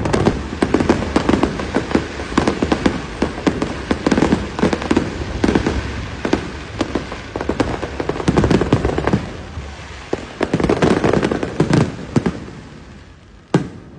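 Fireworks display: aerial shells bursting and crackling in quick succession, several bangs a second. The bangs thin out and fade near the end, with one last sharp bang just before it closes.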